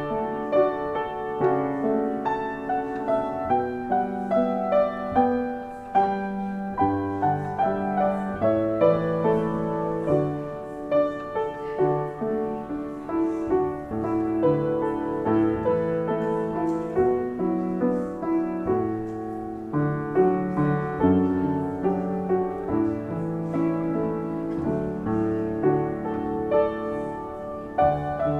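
Solo piano playing steadily, its notes struck and left to ring and fade.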